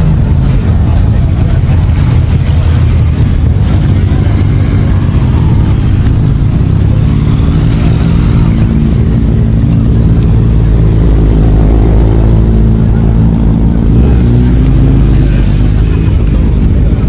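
Many motorcycle engines running together in a loud, continuous rumble, with engine notes rising and falling as bikes rev or move off.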